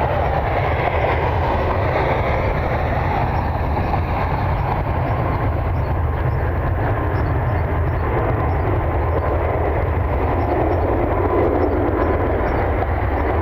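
Strong wind buffeting the microphone, a steady heavy rumble, over the continuous rush of jet aircraft engines, with a faint gliding engine whine near the start.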